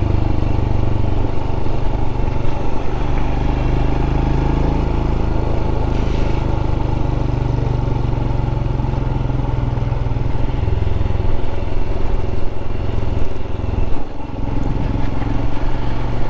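Royal Enfield Scram 411's single-cylinder engine running at a steady cruise, with a constant rush of wind noise over it.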